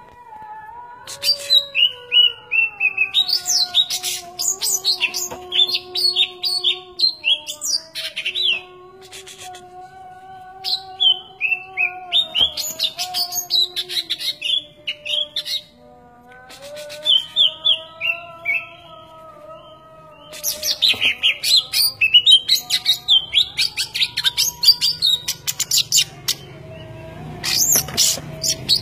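A small bird chirping and twittering in several quick bouts with short pauses between them, over a fainter steady tone that slides slowly up and down.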